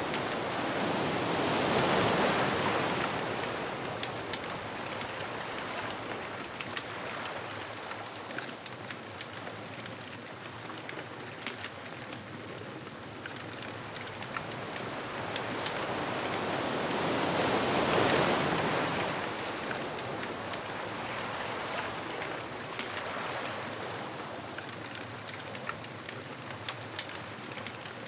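Ocean waves washing onto a beach, with two waves breaking and surging about 2 seconds and 18 seconds in, and a steady wash with fine crackles between them.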